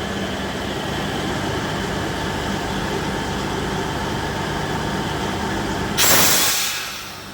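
Class 66 diesel-electric freight locomotive, a two-stroke V12, running steadily under power as it hauls a train of tank wagons. About six seconds in comes a sudden loud hiss that lasts about a second before dying away.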